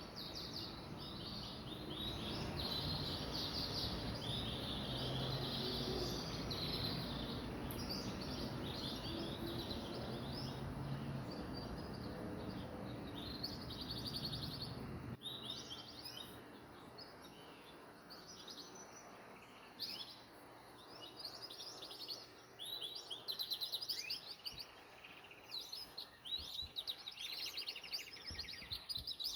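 Canary singing in rapid trills and chirps, phrase after phrase. A low steady background noise under the song cuts off suddenly about halfway through.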